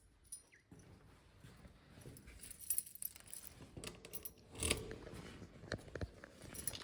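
Faint, scattered clicks and light rattles of small hard objects being handled, louder about four and a half to five seconds in.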